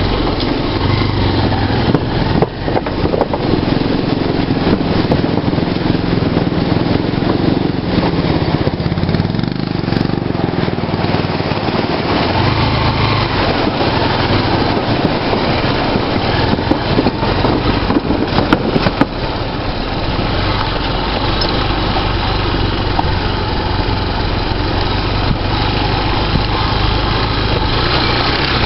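Motorcycle engine running while under way, its note shifting now and then, over a steady rushing noise. A few sharp knocks come through, about two seconds in, near ten seconds and around eighteen seconds.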